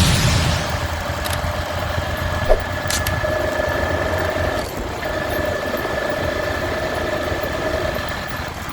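Motorcycle engine running steadily under way, with a steady low rumble and a constant whine. A short sharp knock about two and a half seconds in.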